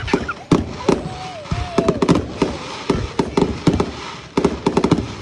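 Fireworks show: aerial shells bursting in quick succession, a string of sharp bangs that bunch into a rapid crackling run near the end.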